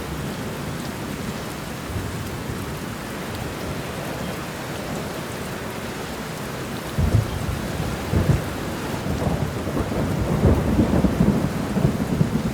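Steady rain falling, with rolling thunder that breaks in about seven seconds in and rumbles and crackles on, loudest near the end.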